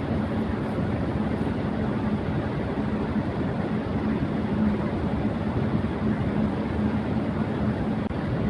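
Electric fan running at high speed: a steady rush of moving air with a low, even hum from the motor underneath.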